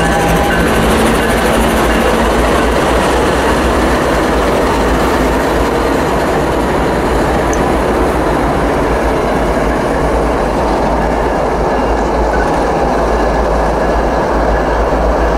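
CSX diesel locomotives passing: the steady engine drone fades about a second in, leaving a loud, steady rushing rumble from the moving train.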